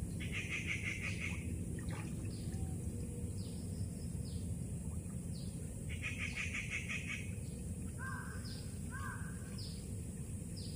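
Birds calling: a rapid trill comes at the start and again about six seconds in. Short high chirps come roughly once a second, and two lower calls come near the end, over steady background noise.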